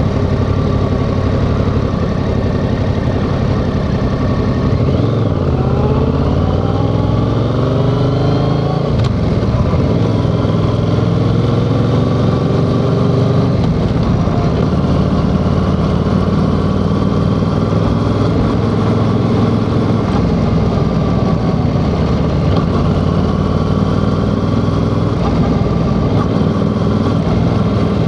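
Yamaha XSR700's 689 cc parallel-twin engine running under way, its pitch rising several times as the bike accelerates and easing off in between.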